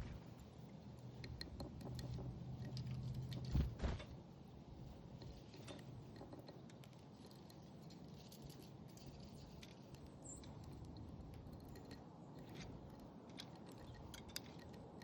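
Small backyard birds feeding at a bird feeder: scattered light clicks and ticks of seed being handled and cracked, with two louder knocks against the feeder a little under 4 seconds in and one short high chirp about 10 seconds in. A low steady hum runs underneath.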